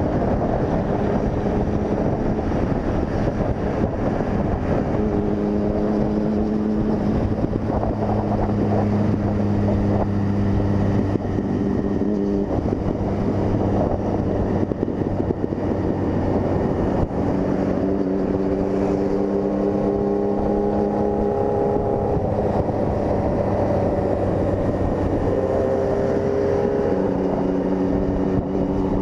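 Honda CG 160 Fan's single-cylinder engine running at road speed with wind buffeting the microphone. The engine note holds steady for a few seconds at a time, then shifts in pitch in steps several times.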